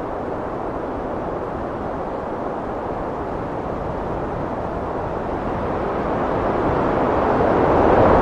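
Strong wind blowing in a steady rushing noise, swelling louder over the last few seconds in a heavy gust.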